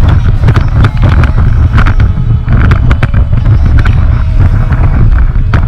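Wind buffeting the microphone: a loud, steady low rumble with irregular knocks.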